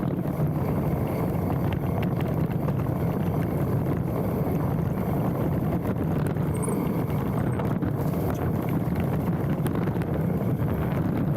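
Specialized Stumpjumper mountain bike rolling downhill on a dirt trail: steady tyre rumble and wind rushing over a handlebar-mounted camera, with scattered clicks and rattles from the bike.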